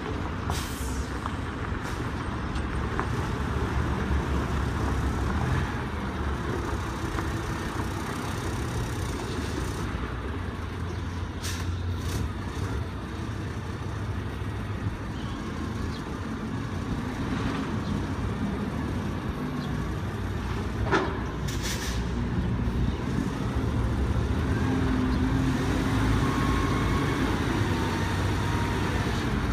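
Isuzu concrete mixer truck's diesel engine running steadily, with a few short, sharp hisses about a second in, around twelve seconds in and a little past twenty seconds in.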